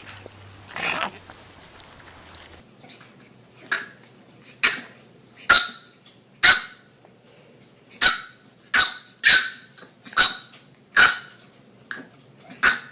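A dog barking: about a dozen short, sharp, high-pitched yaps, starting a few seconds in and coming roughly once a second.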